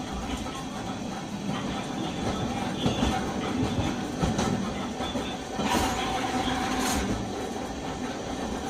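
Nagasaki Electric Tramway 370-series streetcar running, heard from inside the car: a steady rumble of motor and wheels on rail, with two sharp clacks about a second apart near the end as the wheels cross a rail joint.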